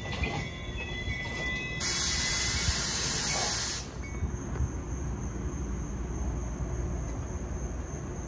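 New Jersey Transit commuter train's passenger coaches rolling past and pulling away with a low rumble. A loud hiss comes in about two seconds in and cuts off suddenly two seconds later. Crickets then chirp steadily in the background.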